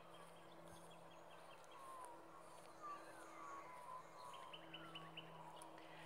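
Faint birdsong: a few short sliding chirps, then a quick trill of rapid notes about two-thirds of the way in, over a faint steady low hum.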